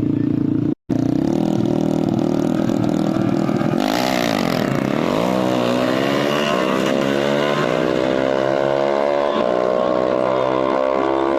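Drag-racing motorcycle engine accelerating hard. Its pitch dips and recovers at a gear change about four seconds in, then climbs steadily. The sound drops out completely for a moment just under a second in.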